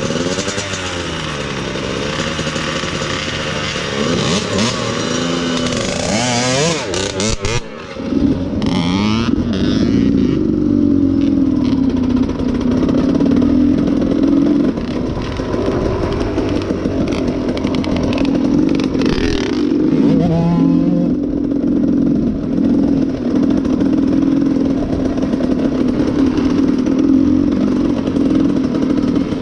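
Dirt bike engine running under throttle, its pitch rising and falling for the first several seconds. After a brief drop about seven seconds in, it holds a steadier, higher note.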